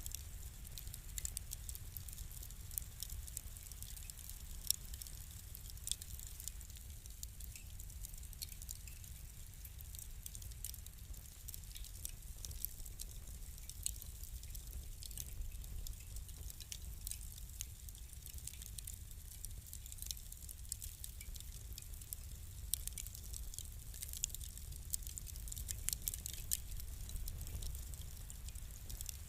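Crackling fire: scattered sharp pops and snaps, irregular and frequent, over a low steady rumble.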